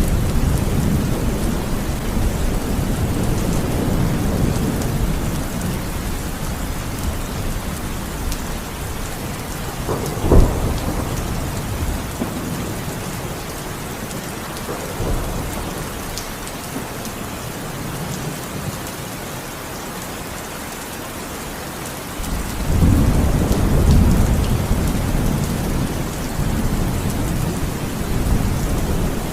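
Heavy rain falling steadily, with thunder: low rumbling at the start that dies away, a single sharp crack about a third of the way in, and another long rumble building about three-quarters through.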